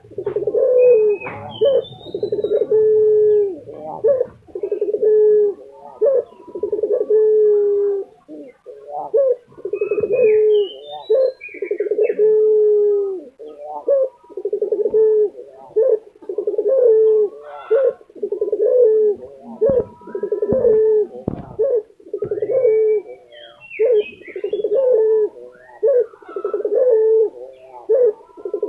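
Lutino ringneck dove (Barbary dove) cooing over and over, one falling coo about every second, without a break.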